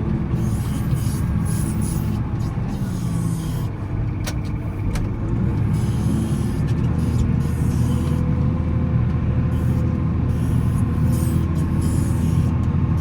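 Volvo L70C wheel loader's diesel engine running steadily while plowing snow, its pitch shifting slightly as it works.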